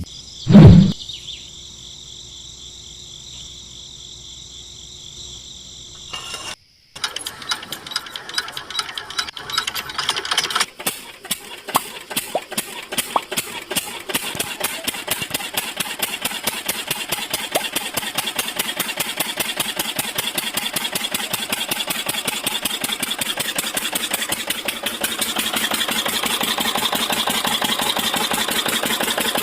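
Small motor of a homemade model tractor and flour mill running with a fast, rapid clattering. It starts several seconds in, after a short quiet hum, and grows denser and louder toward the end.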